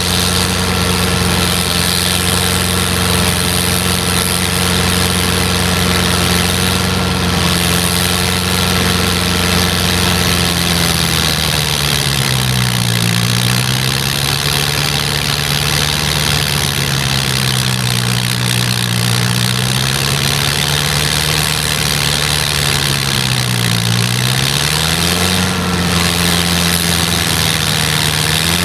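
Snowblower engine running steadily. Its pitch drops about halfway through, stays lower with one more dip, then picks back up near the end.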